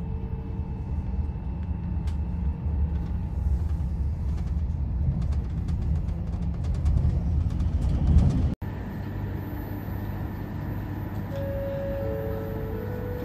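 Inside a moving electric passenger train: a steady low rumble of wheels on rail that swells about eight seconds in and breaks off suddenly. The quieter hum of a station platform with a train standing follows, with a few short steady tones stepping in pitch near the end.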